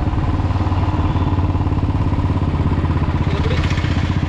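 Royal Enfield Thunderbird 350X's single-cylinder engine running steadily, with a fast, even exhaust pulse.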